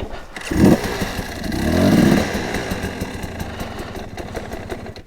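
Beta enduro dirt bike engine being started after refusing to start: it fires loudly about half a second in, revs up and down around two seconds in, then keeps running.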